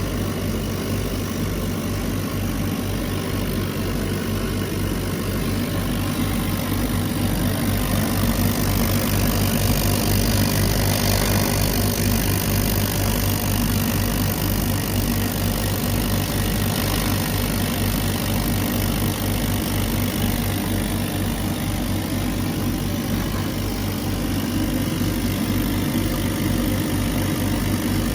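CNC laser cutter running as it cuts pine: a steady low mechanical hum with a fast, even pulse.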